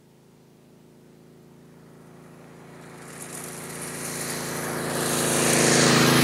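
A motor vehicle approaching, its engine and road noise growing steadily louder throughout and becoming loud near the end.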